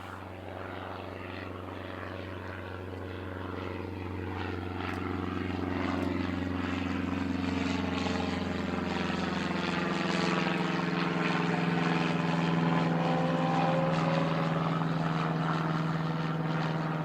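Aircraft engines droning as a plane passes, growing steadily louder through the first ten seconds. A deep hum drops away about ten seconds in while a higher steady drone carries on, with a slowly shifting, wavering sound as the aircraft moves past.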